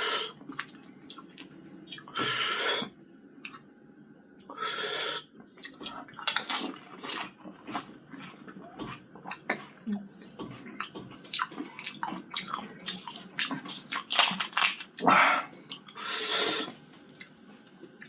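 Pani puri being eaten: crisp puri shells crackling and crunching as they are chewed, with a few short, wet splashy sounds of the tamarind water. The wet sounds are loudest about two, five and sixteen seconds in.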